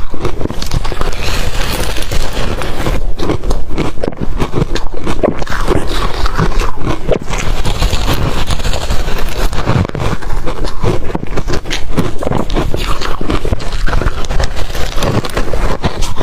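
Ice being bitten and chewed close to the microphone: a dense, unbroken run of loud crunching and cracking.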